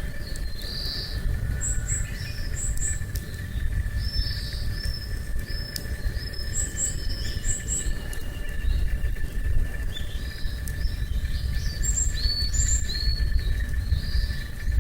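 Small birds chirping again and again in short high calls over a steady low rumble, with a thin steady insect drone and a few faint crackles from a wood campfire.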